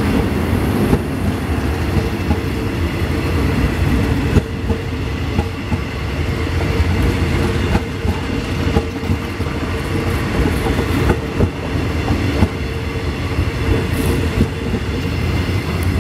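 Eastern & Oriental Express passenger carriages rolling past close by: a steady rumble with the wheels clicking over rail joints.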